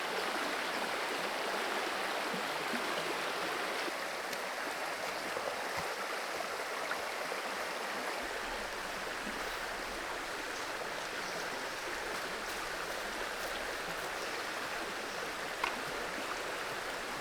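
Forest creek water running steadily over rocks, an even rushing flow, with one light click near the end.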